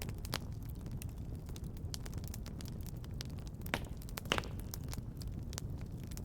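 Wood fire crackling in a fireplace: a steady low rumble with scattered sharp pops, two louder ones between about three and a half and four and a half seconds in.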